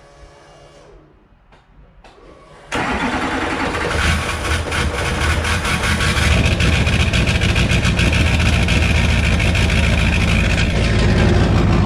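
Duramax 6.6-litre V8 turbo-diesel starting up. About three seconds in it fires and runs loudly with a fast, even pulse for the rest.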